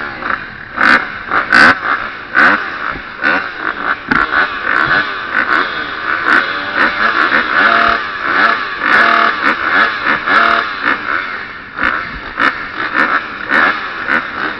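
KTM 350 SX-F motocross bike's four-stroke single engine, heard from an onboard camera, revving up and down over and over as the throttle is opened and closed, with frequent sharp knocks and wind buffeting on the microphone.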